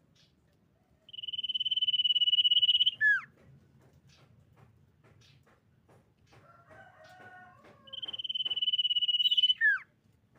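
Common iora singing its long whistle: a steady high note held about two seconds that ends in a quick downward slur, given twice. Faint chips and a short soft twitter come between the two whistles.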